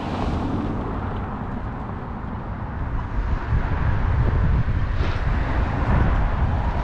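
Wind buffeting the microphone during a bike ride, a rough low rumble that grows louder about three seconds in.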